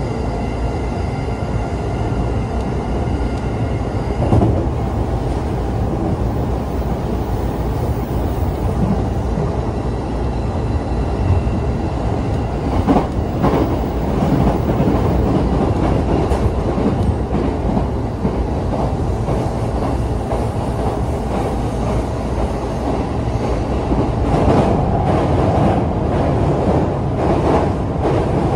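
Passenger train running at speed, heard from inside the carriage: a steady rumble of wheels on rail with occasional sharper clacks over the track.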